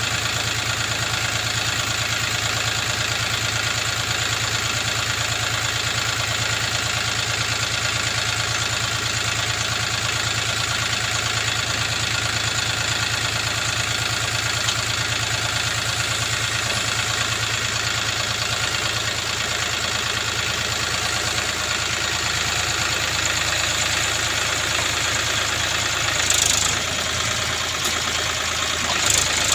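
Diesel engine of earth-moving machinery running steadily at idle. There are two brief louder noises near the end.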